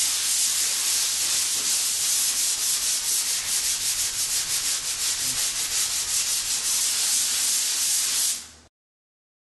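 Hand sanding dried drywall joint compound with 150-grit sandpaper wrapped around a sanding block: a steady, scratchy hiss in quick, even back-and-forth strokes that stops abruptly near the end.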